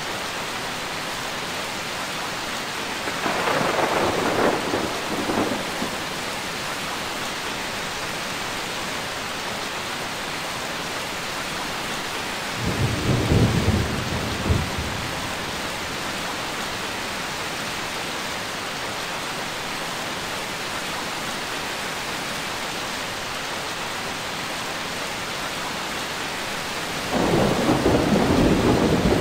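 Steady heavy rain with three rumbles of thunder: one a few seconds in, a deeper, lower one about halfway through, and a third building near the end.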